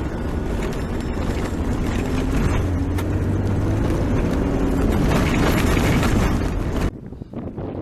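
Vehicle driving on the road: steady engine and tyre noise with a faint engine note that wavers up and down. It cuts off suddenly near the end.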